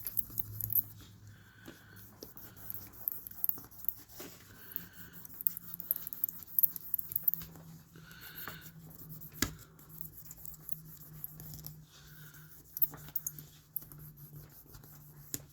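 Fine-grit abrasive, about 5,000 grit, being rubbed by hand over a watch crystal to polish it: faint scratchy rubbing with scattered small clicks over a steady low hum. A few short, faint whine-like sounds come through at intervals.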